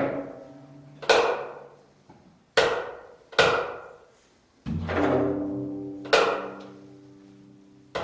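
Strings of a Korean long zither struck sharply in a slow, spaced-out passage. There are about five hard, percussive attacks, each note ringing and then fading. About two-thirds of the way through, a lower note sustains for a couple of seconds.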